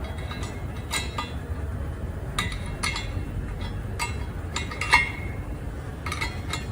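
Metal tool clinking against a truck air disc brake caliper while a rubber boot is pressed into place: irregular sharp metallic clinks, the loudest about five seconds in, over a steady low hum.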